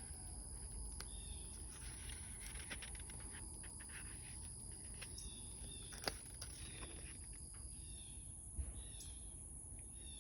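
Faint paper handling as sketchbook pages are touched and turned: soft rustles and a few sharp clicks, the loudest about six seconds in and again near nine seconds. Underneath, a steady high-pitched drone and a few short chirps run on.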